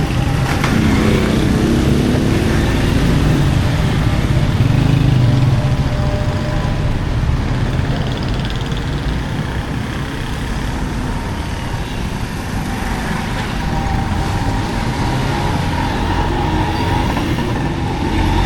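Street traffic: motor vehicle engines running close by in a steady low rumble. It is loudest a few seconds in and eases a little in the middle.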